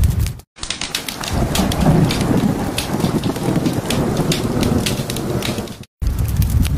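Heavy rain with a rumble of thunder, lasting about five seconds between two sudden dropouts. Fireplace crackle is heard briefly before and after.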